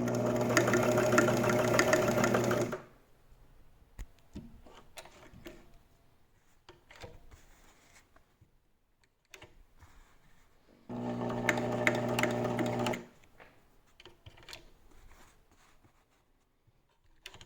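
Elna TSP 72C sewing machine's motor running as it sews a zigzag stitch: a steady hum with fast needle ticking. It sews in two runs, about three seconds at the start and about two seconds around eleven seconds in, with faint clicks between them.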